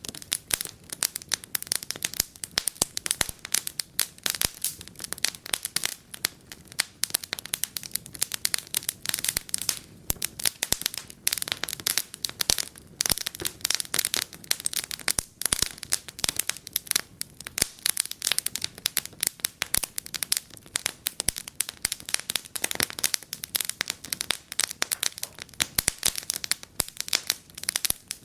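Wood fire burning in a fireplace, crackling and popping without pause, many sharp snaps a second.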